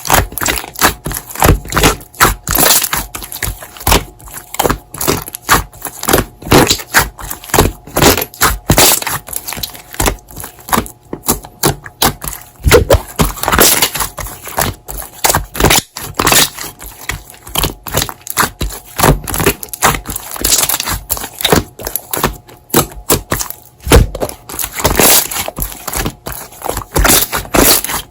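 Slime being squished and pressed by hand, giving rapid, irregular crackling pops and clicks.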